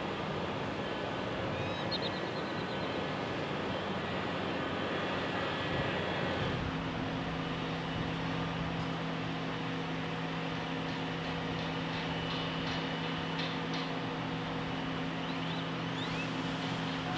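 Steady outdoor machinery hum over a constant noisy background. The hum changes to a new, steadier pitch about six and a half seconds in, and there are a few short high chirps.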